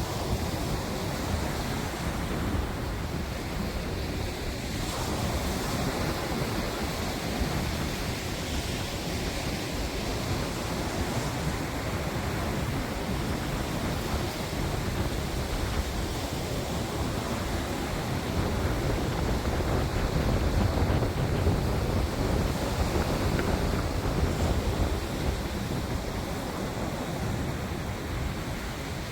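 Strong wind rumbling on the microphone over the wash of sea waves, a steady rushing noise that swells louder about two-thirds of the way through.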